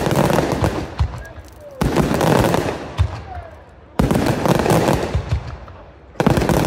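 Daytime aerial fireworks: a volley of shells bursts about every two seconds, three times in all, each followed by a dense rattle of sharp reports that fades away.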